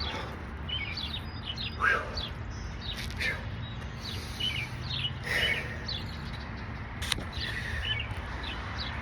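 Several birds chirping, many short calls scattered and overlapping, over a steady low background hum. A single sharp click comes about three quarters of the way through.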